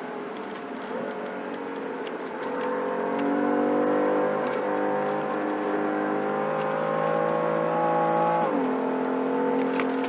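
2015 BMW M3's twin-turbo straight-six engine at full throttle near the top of its rev range, heard from inside the cabin. The engine note holds high with a few small steps in pitch, then drops sharply about eight and a half seconds in.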